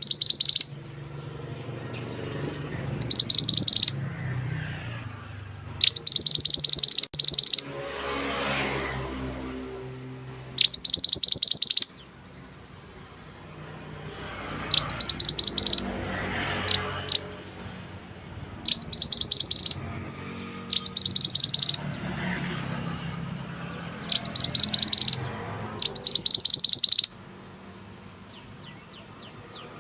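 Mantenan bird singing: high-pitched bursts of fast, rattling repeated notes, each about a second long, coming again every two to three seconds.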